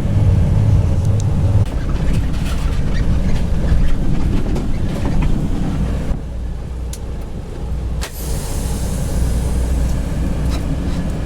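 Semi truck hauling an empty trailer: the diesel engine runs under a steady rumble with rattles and knocks from the rig. A sharp knock comes about eight seconds in, followed by a hiss for a couple of seconds.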